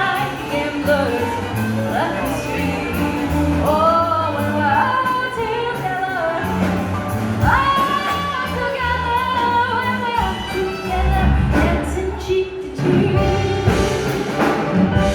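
Small live jazz band of violin, keyboard and drums playing an instrumental break over a steady bass line, the violin carrying the melody in sliding, wavering notes.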